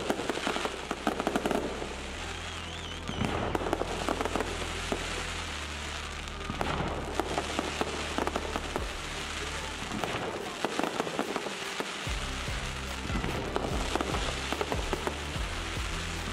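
Fireworks display with dense, irregular crackling and popping from bursting shells and spark fountains, over music with a deep bass line.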